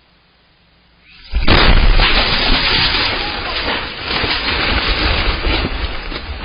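An explosion in a house: a sudden loud blast about a second in, followed by a continuing rumble and crackle that slowly eases off.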